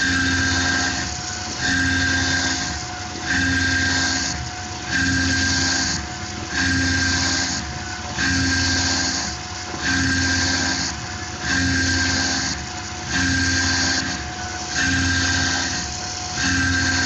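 Tormach PCNC 1100 CNC mill cutting a pocket in aluminum with its spindle at about 5000 RPM. Over a steady spindle whine, the cutting sound swells and eases in a regular cycle about every one and a half seconds as the tool repeats its passes.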